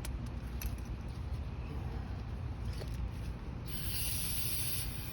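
A hissing spray about three and a half seconds in, lasting about a second, while small carburetor parts are cleaned out, with a few light clicks of parts being handled earlier, over a steady low hum.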